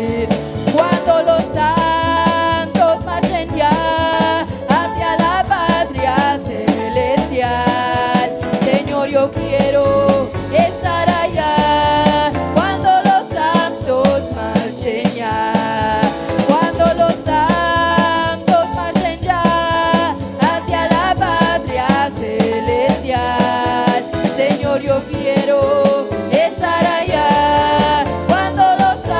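Live church worship band playing an upbeat gospel song with a drum kit, with singing along.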